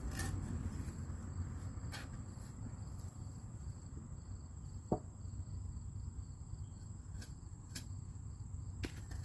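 Outdoor ambience: a steady high insect trill over a low background rumble, with a few faint clicks and one short knock about five seconds in.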